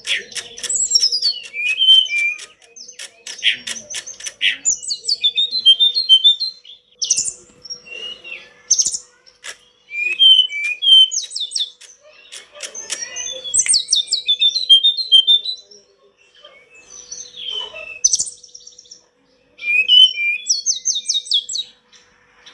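Tledekan gunung singing an energetic, varied song: quick chirps, rapid rattling trills and short whistled phrases, broken by brief pauses. A faint steady hum runs underneath.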